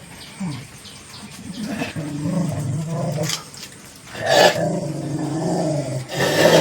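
A dog growling in long low stretches, broken by a few short sharp outbursts.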